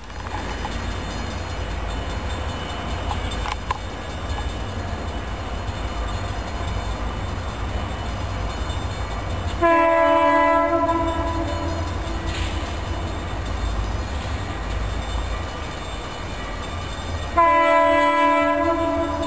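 Diesel locomotive's multi-chime air horn sounding two long blasts about eight seconds apart, each a chord of several notes, over the steady low rumble of the train. The railfan takes the horn for an M5 or M3.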